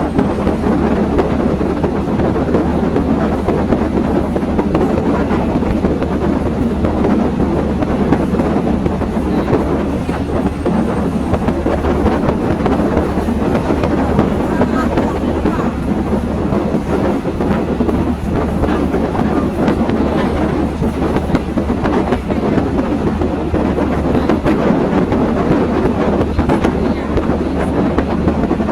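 Passenger train running along the track, heard from aboard: a steady rumble of the wheels on the rails.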